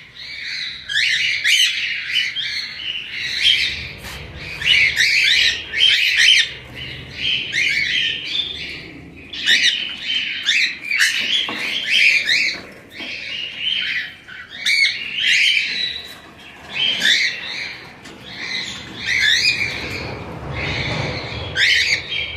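A flock of rosellas and cockatiels calling over one another in continuous clusters of short chirps and squawks.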